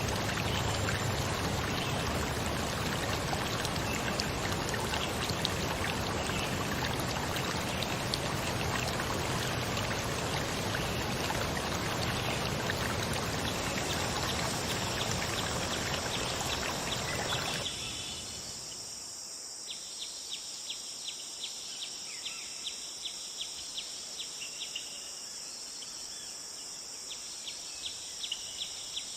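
Running water, a stream or waterfall, rushing steadily, which cuts off suddenly a little over halfway through. In its place come insects, with a steady high buzz and rapid, regular chirps.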